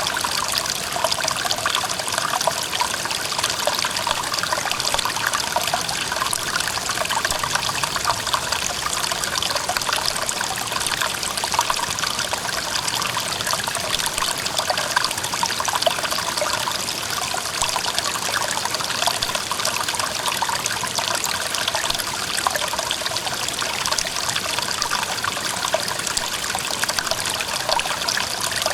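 Clear mountain stream flowing steadily over rocks, an even, unbroken rush of water with fine splashing detail.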